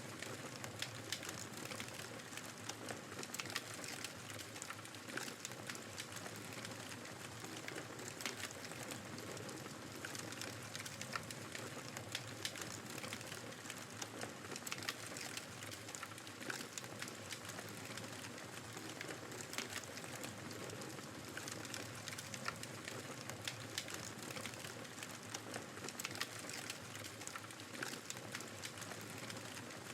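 Wood fire crackling with frequent small irregular pops over a steady hiss of blizzard wind.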